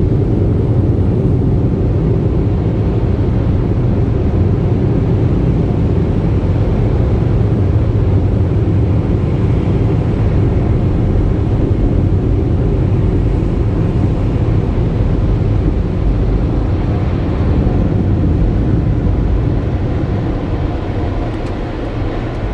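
Tunnel car wash air-dryer blowers, a loud steady rush of air heard from inside the car, fading near the end as the car passes out of them.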